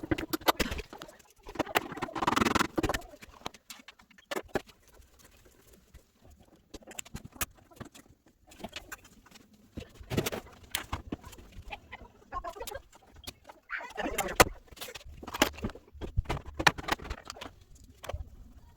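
Irregular clicks, knocks and short scraping bursts of washer parts and tools being handled during reassembly.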